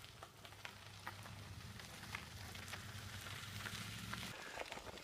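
Faint crackling and scattered clicks and rattles of a bicycle being ridden, picked up through a homemade camera mount on the bike. A low steady hum runs under it and stops a little past four seconds in.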